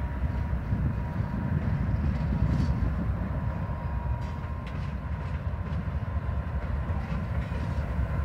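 Approaching Norfolk Southern freight train: its lead diesel locomotives make a steady low rumble that grows a little louder as it nears, with a faint steady high tone above it.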